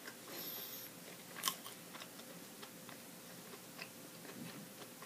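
Quiet chewing of soggy French fries with a closed mouth, with scattered small wet mouth clicks and one sharper click about a second and a half in.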